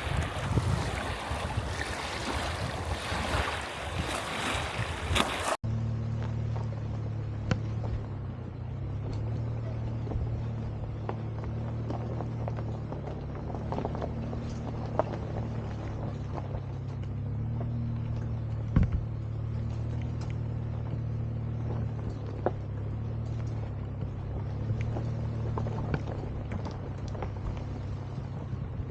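Wind buffeting the microphone for a few seconds, then a steady low engine drone, as from inside a moving vehicle, with scattered small clicks and rattles.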